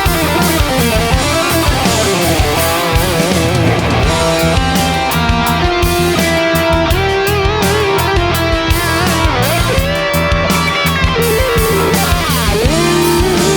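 Instrumental rock: a lead electric guitar line with bends and vibrato over bass guitar and programmed drums.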